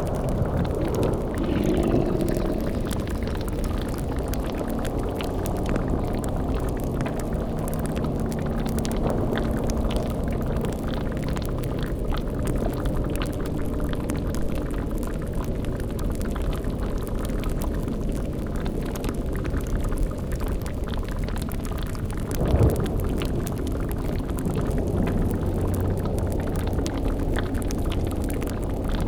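Dark fantasy ambience: a steady low rumble with bubbling liquid like a boiling cauldron, under faint, drawn-out low tones. A short, loud low hit stands out about three-quarters of the way through.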